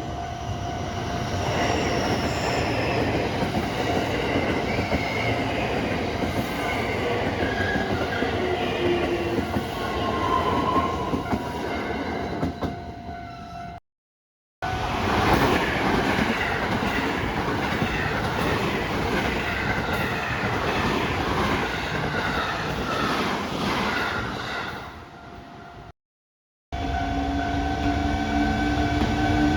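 An electric commuter train running past on the rails, with wheel clatter over a steady tone. The sound cuts out to silence twice, briefly, in the middle and near the end.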